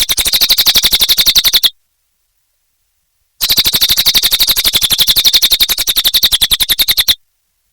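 Cililin bird calling in a fast, dry, high-pitched trill of about thirteen notes a second, in two bursts: the first stops under two seconds in, and the second starts about three and a half seconds in and stops about seven seconds in.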